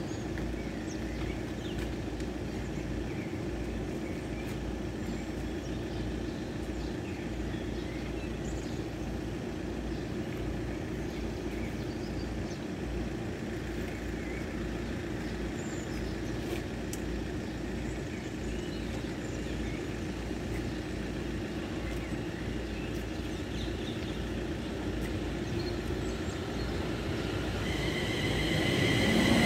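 Steady low outdoor background rumble with a few faint short bird chirps. In the last few seconds an approaching London Northwestern electric train grows louder, and high steady ringing tones from the rails come in near the end.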